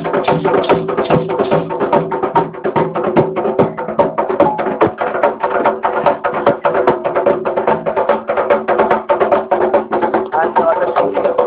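Percussion music: fast, dense drumming with voices over it.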